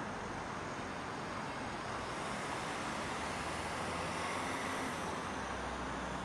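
Steady evening traffic hum in a residential neighbourhood, with a car passing that swells from about two seconds in and eases off near the end, leaving a low rumble.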